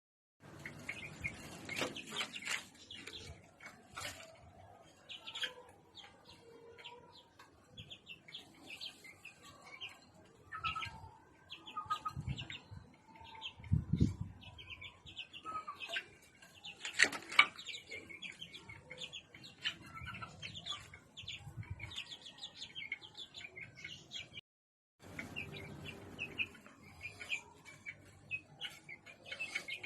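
Small birds chirping over and over in quick, short calls, with a few dull knocks in between. The sound breaks off briefly a few seconds before the end.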